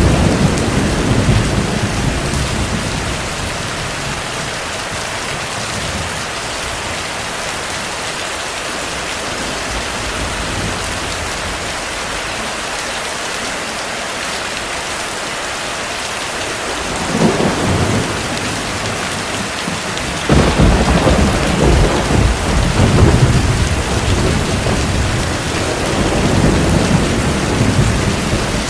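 Heavy rain falling steadily, with rolls of distant thunder. A rumble fades out over the first few seconds. A short swell comes about two-thirds of the way in, then a longer, louder roll of thunder follows and lasts almost to the end.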